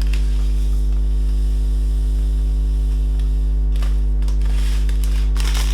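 Steady electrical mains hum on the recording, with a few faint handling noises about four seconds in and again near the end.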